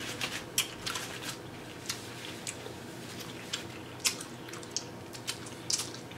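Wet chewing and lip-smacking from a mouthful of corn on the cob, heard as many scattered short clicks, with fingers being licked clean.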